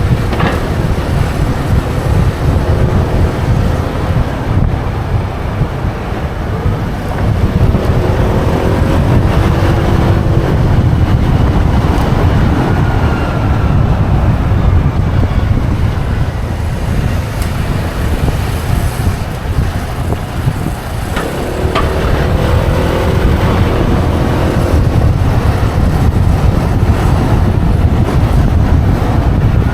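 Motorbike ride with heavy wind rush on the microphone, and the bike's engine note rising and falling as it speeds up and slows.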